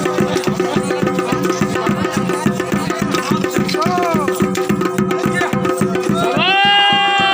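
Uttarakhandi folk dance music: fast, dense drumming with a steady held drone above it. About six seconds in, a loud new held note with a slight upward bend comes in over the drums.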